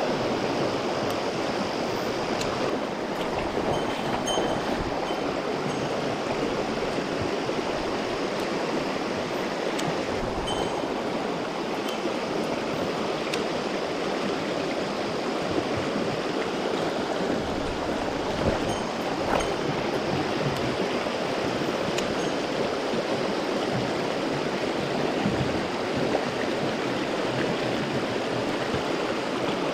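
Mountain stream running over rocks: a steady rush of water, with a few faint ticks here and there.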